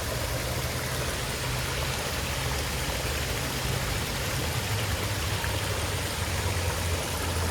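Steady rushing of running water, with a low hum underneath.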